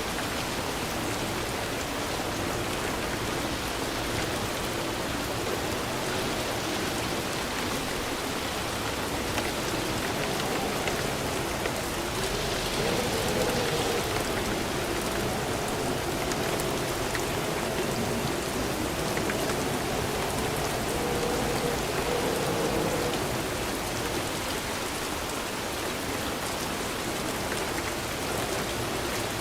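Steady heavy rain falling and pattering on surfaces, a continuous even hiss that swells slightly for a stretch in the middle.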